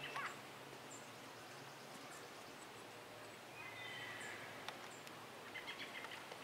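Quiet outdoor ambience with faint bird calls: scattered high chirps, and short runs of descending notes about four seconds in and again near the end.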